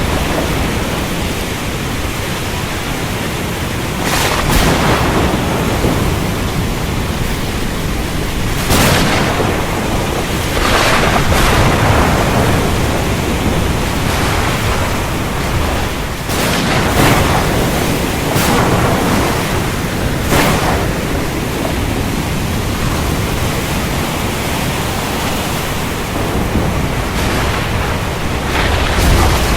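Heavy rain as a steady loud hiss, with thunder cracking in several short surges spread through it.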